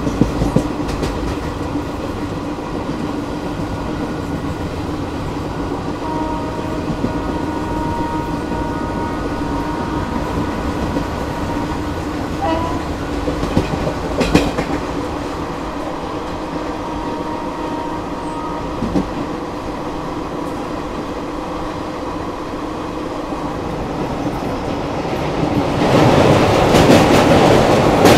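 Passenger train running along the track: a steady rumble and rattle of coach wheels on the rails, with a few sharp clanks, growing clearly louder near the end.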